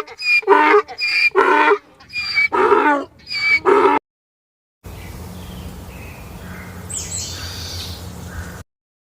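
An animal calling loudly and repeatedly, about five pitched calls in four seconds. After a short break, a quieter outdoor recording follows with a steady low hum and a faint high call.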